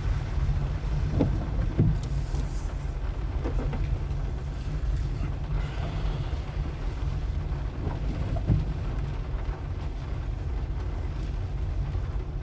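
Car driving on a wet, sandy street: a steady low rumble from engine and tyres, with a few short thumps as it goes over bumps.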